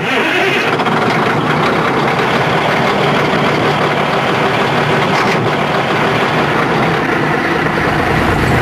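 Caterpillar 140G motor grader's diesel engine running steadily.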